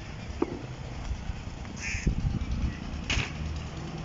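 Outdoor ambience with a steady low rumble on the microphone and two short bird calls, one about two seconds in and a sharper one just after three seconds, with a few faint knocks.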